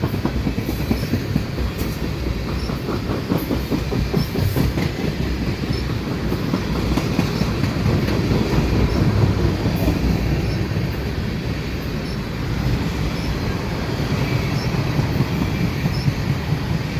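Freight train cars rolling past at close range: a continuous rumble of steel wheels on rail, with faint regular clicks about every two seconds.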